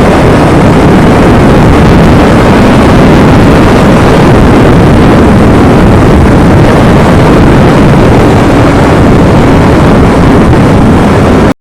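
Yamaha R25 motorcycle with its stock exhaust, its parallel-twin engine running on the move, very loud and buried in a dense rushing noise. The sound cuts off abruptly near the end.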